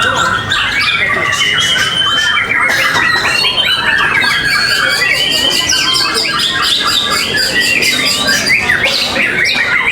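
Many caged songbirds singing and calling at once: a dense, steady tangle of overlapping chirps, trills and squawks.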